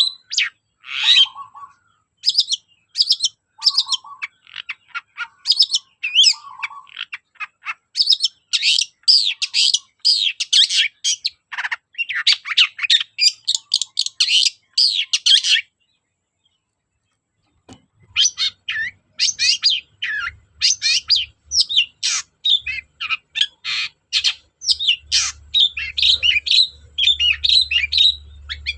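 Long-tailed shrike (cendet) singing a loud, fast, varied song of short chattering notes. It breaks off for about two seconds just past the middle, then resumes, with a faint low hum underneath.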